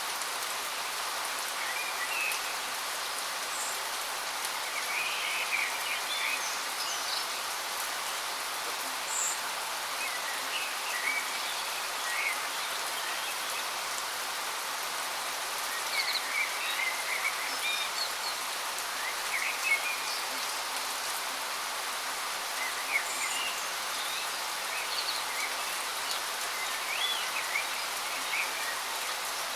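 Steady rush of a waterfall, an even hiss of falling water, with birds chirping in short, scattered calls over it.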